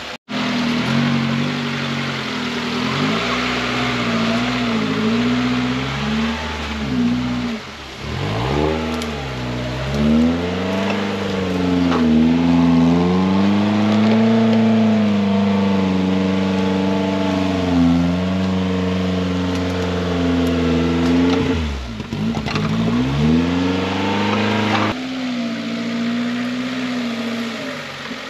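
Off-road 4x4's engine working hard through mud and ruts. The revs rise and fall again and again, and drop away sharply twice as the throttle comes off.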